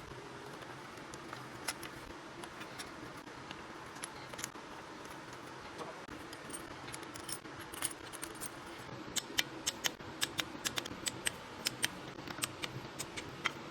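Hand tools being worked on an engine: scattered sharp metallic clicks, turning into a quick run of clicks from about nine seconds in, over a steady low hum.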